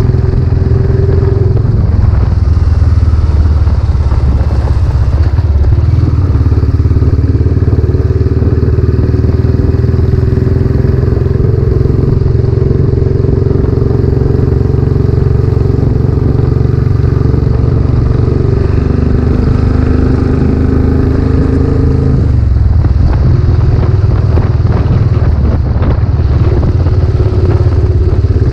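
Royal Enfield Classic 500's air-cooled single-cylinder engine running loud through a new aftermarket silencer while riding, its note shifting with throttle changes a few times.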